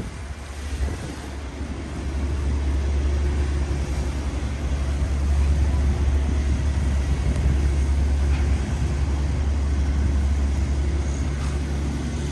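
A motor vehicle's engine running steadily close by, a deep, even hum over the noise of the street.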